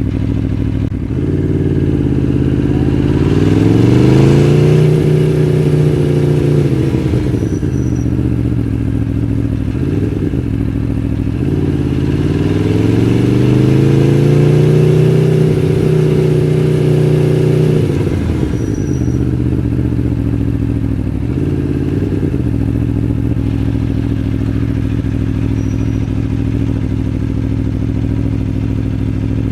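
Aprilia Tuono V4 1100 Factory's 1077 cc V4 engine idling, then pulling away twice: the pitch rises, holds, and falls back to idle. A couple of short throttle blips come between the pulls.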